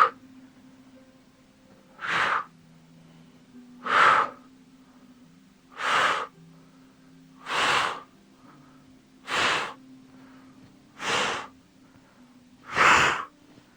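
A man breathing out hard through the mouth in time with exercise repetitions: seven short, forceful exhalations, evenly spaced about every two seconds.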